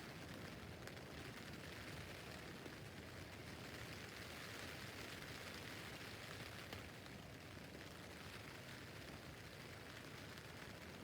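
Steady rain falling on a tent roof: an even, faint hiss with a few distinct drop taps.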